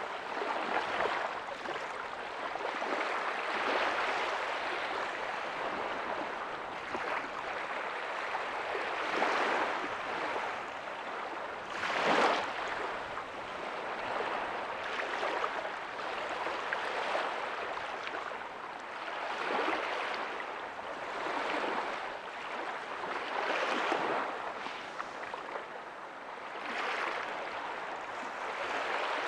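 Small ocean waves breaking and washing up a beach: a continuous rush of surf that swells and eases every few seconds, with one sharper, louder break about twelve seconds in.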